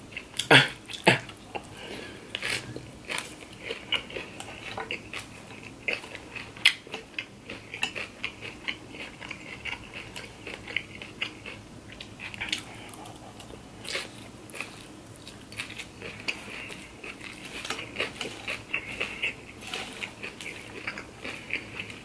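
Close-miked chewing and crunching of a crisp shredded-cabbage shrimp salad, irregular and crackly, with sharper clicks now and then from a metal fork against the glass baking dish.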